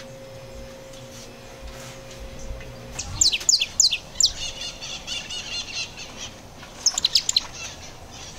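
A small songbird calling: a quick series of about five sharp, falling chirps, then a rapid warbling twitter, then another quick run of chirps. The first three seconds hold only a faint steady hum.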